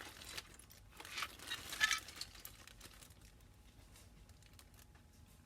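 Plastic bags of model kit parts crinkling, with light clicks of loose plastic pieces, as the parts are rummaged through; the rustling is strongest in the first two seconds or so, then fades to faint ticks.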